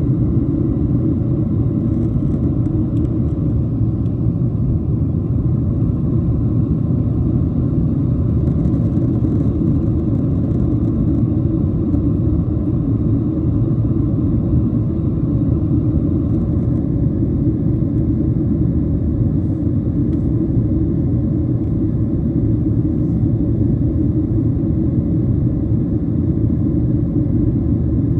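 Steady low rumble of engine and airflow noise inside the passenger cabin of a Boeing 737-700 in flight, heard at an even level with no distinct events.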